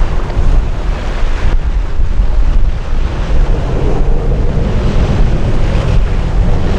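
Wind buffeting the microphone in a loud, uneven rumble. A faint steady hum comes in underneath about halfway through.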